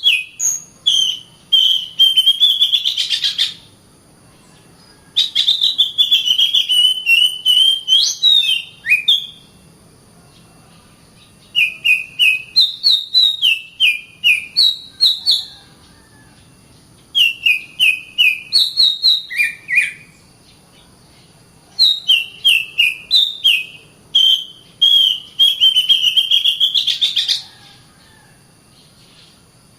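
Oriental magpie-robin (kacer) singing: bouts of quick, clear whistled notes, rising and falling, each bout a few seconds long with short pauses between, about five bouts in all.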